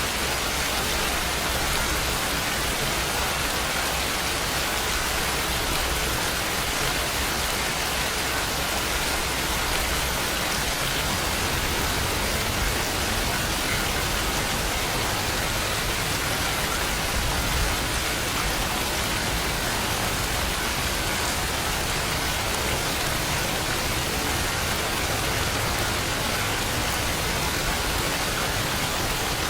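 Steady rain falling, an even hiss of many drops with no breaks or changes in strength.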